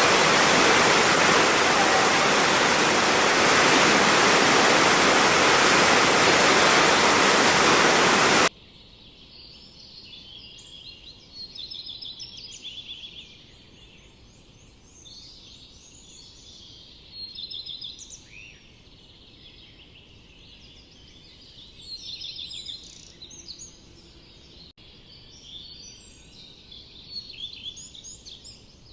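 Loud, steady rushing of water, like a waterfall, that cuts off abruptly about eight seconds in. Quieter songbirds follow, singing repeated high chirps and trills in short phrases.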